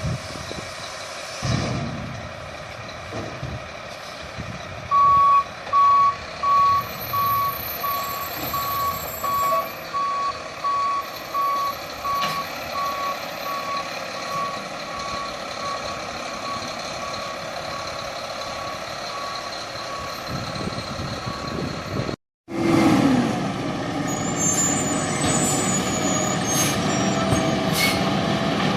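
Refuse truck running with its reversing alarm sounding a steady series of single-pitch beeps, about one a second, which start loud and grow fainter as the truck backs away. After a sudden break, more truck engine running with a few knocks.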